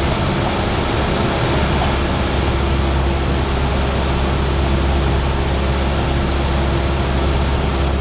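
Cessna 172R's four-cylinder piston engine and propeller running at a steady cruise setting, a constant drone with a low hum, heard inside the cockpit.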